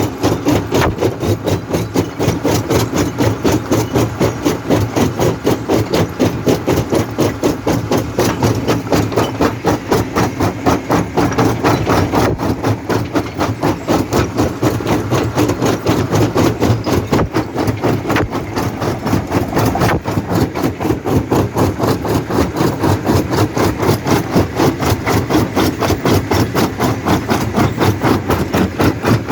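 Jaw crusher running and crushing stone: a rapid, even pounding, several strokes a second, over a steady machine drone.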